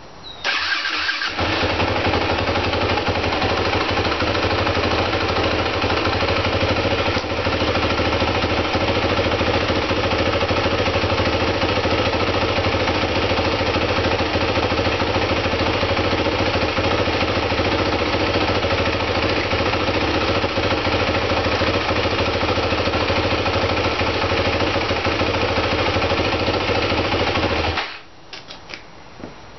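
Dirt bike engine starting about half a second in, running steadily at idle, then switched off abruptly near the end.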